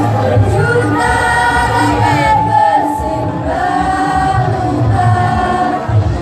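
A school choir singing, holding long notes that change pitch every second or so.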